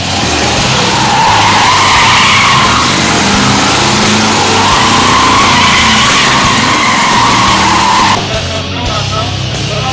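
Car tyres squealing in one long, wavering screech that cuts off abruptly about eight seconds in, over rock music.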